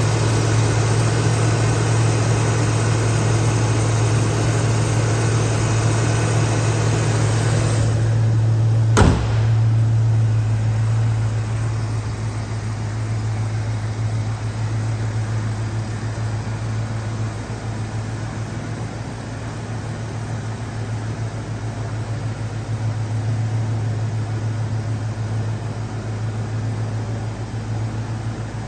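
1987 Ford Mustang LX's engine idling steadily after a cold start. A single sharp knock comes about nine seconds in, and after it the sound is duller and a little quieter.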